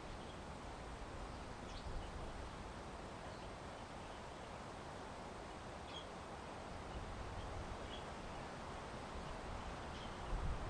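Steady outdoor ambience of wind, with a few faint, short bird chirps scattered through it.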